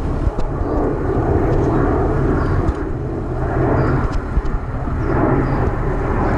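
A steady, engine-like drone with a low hum, and a few faint clicks.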